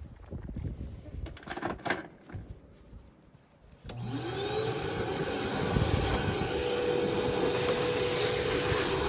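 A few knocks, then about four seconds in the truck's heater blower motor switches on: a whine rises as it spins up and settles into a steady hum with a rush of air.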